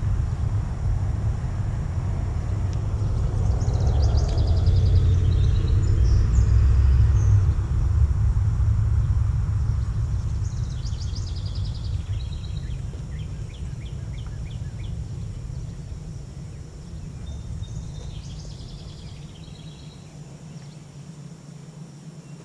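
Outdoor low rumble that swells over the first several seconds and then slowly fades, with short bursts of high, rapid chirping three times, typical of a songbird.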